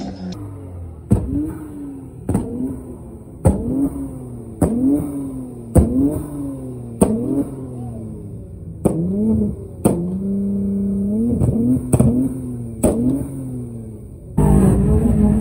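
A car engine revved in quick throttle blips about once a second, each starting with a sharp crack and its pitch rising then falling. Near the end, loud rock music cuts in.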